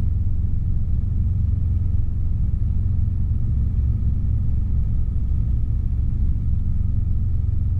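Steady rumble of a Robinson R22 helicopter in flight, its engine and rotor heard from inside the cabin through the intercom headset, with a faint steady whine.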